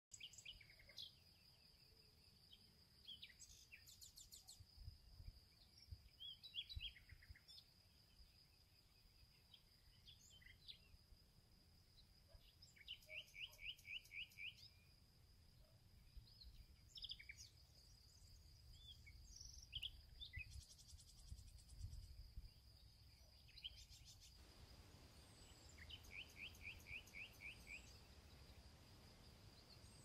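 Faint outdoor birdsong: scattered chirps and calls, with a quick run of about eight repeated notes twice, over a steady high-pitched insect note and low wind rumble on the microphone.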